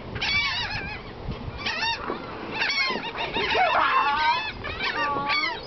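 A flock of seagulls calling, many overlapping cries coming in repeated bursts of a second or less.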